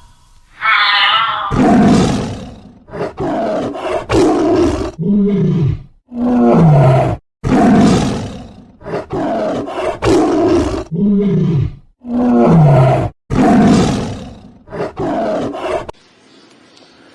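A big cat roaring in a long bout: a series of deep, loud roars every one to two seconds, with short grunts falling in pitch among them, dying away near the end.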